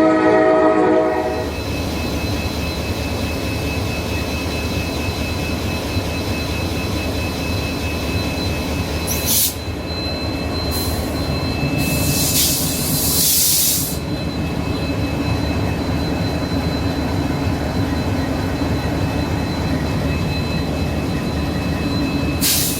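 Diesel train's horn sounding and cutting off about a second in, then the train running steadily on the track, a continuous rumble with a faint high whine. Short bursts of hiss come through about halfway.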